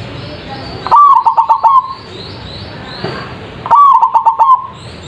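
Zebra dove (perkutut) cooing: two loud phrases of quick rippling notes, about a second in and again near four seconds, over a steady background hiss. Each phrase is a song meant as a lure to set other perkutut singing.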